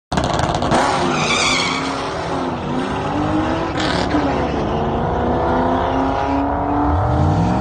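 Car engine revving and pulling, its pitch rising and falling several times, with a brief high squeal about a second in and a fresh rise in pitch near the end.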